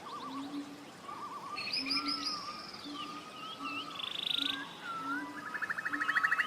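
Forest birds calling over each other: wavering whistles and fast buzzy trills, the loudest trills about four and six seconds in. Under them a short low note repeats steadily, a little more than once a second.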